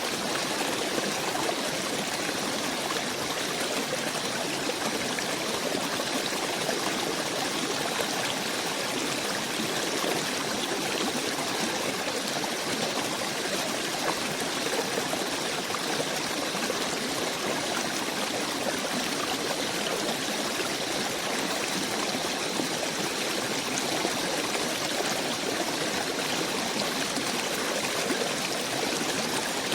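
Steady, even rushing of a running stream, unchanging throughout with no distinct bird calls standing out.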